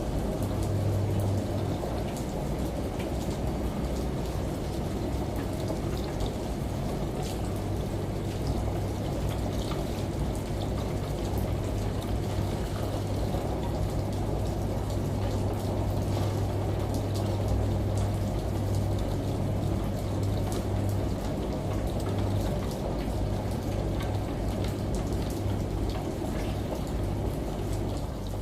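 Steady rush of rain and falling shower water, dotted with a few sharper drop ticks, over a constant low hum from a running washing machine.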